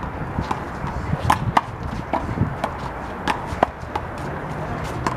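A one-wall handball rally with the big blue rubber ball: sharp smacks of the ball being slapped by hand and hitting the wall and court, about ten in quick, uneven succession.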